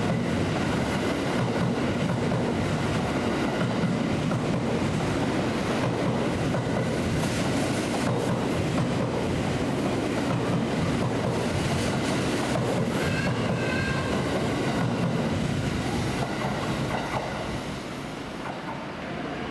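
A train moving along the track: a steady rumble of wheels on rail, with a brief high wheel squeal about two-thirds of the way through, easing off near the end.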